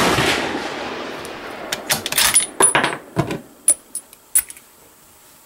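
A Remington bolt-action hunting rifle fires one shot at the very start, its report rolling away over about two seconds. Then come a series of sharp metallic clicks and clacks of the bolt being worked.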